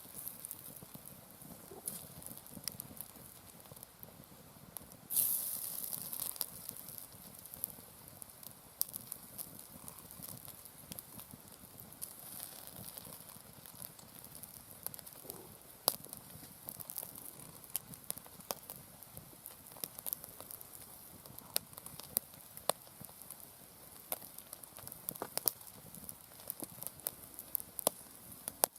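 Wood fire burning in a campfire stand, crackling with irregular sharp pops over a low hiss, with a louder burst of hiss about five seconds in.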